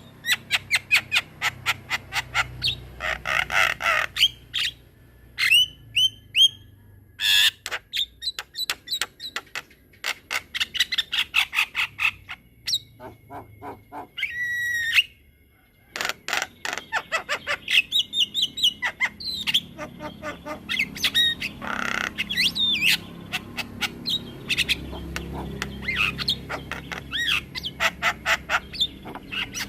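Javan myna (jalak kebo) singing a long, unbroken run of rapid chattering clicks, squawks and short whistles. There is a brief pause around the middle, where one gliding whistle stands alone.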